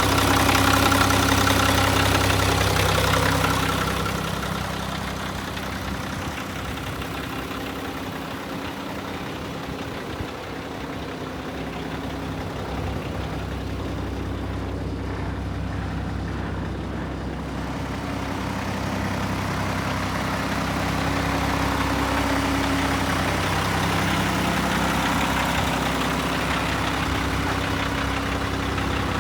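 A 2007 Mack Granite dump truck's 12.0-litre inline-six diesel engine idling steadily. It is loudest for the first few seconds, quieter through the middle, and louder again in the second half.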